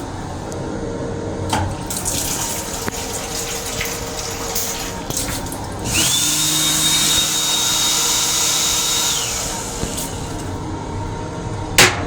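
Water running in an M7 railcar's restroom for about three seconds, a sudden rush with a high steady whine that rises as it starts, over the steady rumble of the moving train. A few clicks, and a sharp knock near the end.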